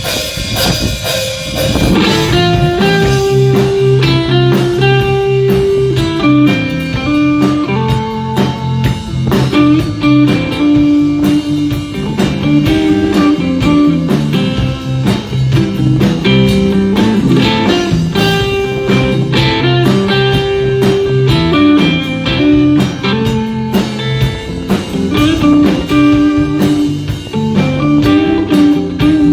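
Live band playing a song's instrumental part: guitar lines over bass and a drum kit.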